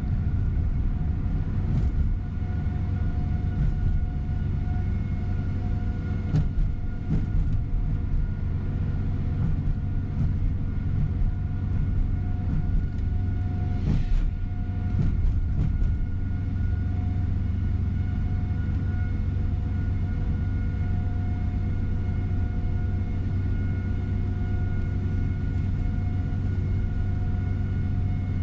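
Inside a tour coach on the move: steady diesel engine drone and road rumble with a faint steady whine, and a few knocks and rattles from bumps, the clearest about halfway through.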